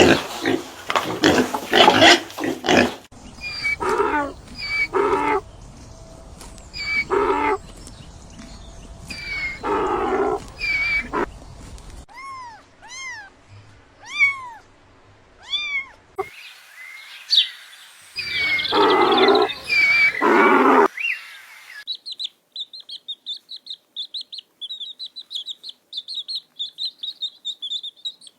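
A string of different animal calls, one recording after another: repeated loud calls, a run of short rising-and-falling chirps, and rapid high-pitched chirping over the last several seconds.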